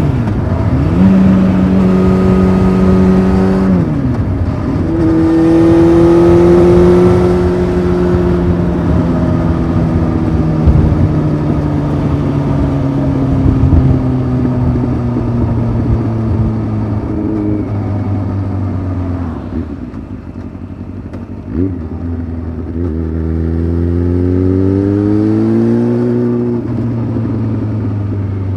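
Honda CBF 600's inline-four engine through a titanium sport exhaust, heard while riding. Its pitch drops sharply at the start with a gear change, then holds and climbs again. Next comes a long slow fall in pitch as the bike slows on closed throttle, and it accelerates again near the end with another gear change.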